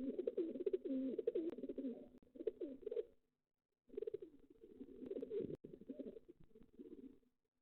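Pigeons cooing in low, wavering calls, in two long stretches with a short pause about three seconds in, over faint scattered clicks.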